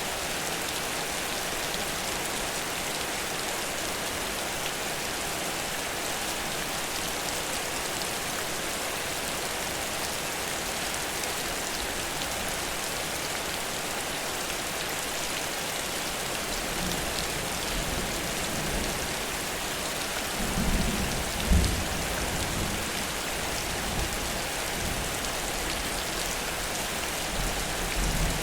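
Heavy rain falling in a steady, even hiss. Low rumbles of thunder come in past the middle, the strongest about three-quarters of the way through, with a shorter one near the end.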